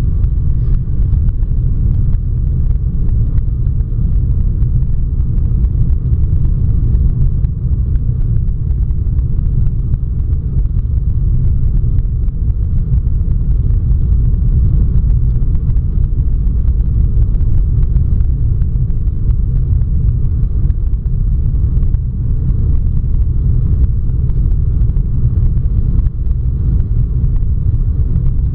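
Steady low rumble of a Boeing 757's engines and airflow heard from inside the passenger cabin.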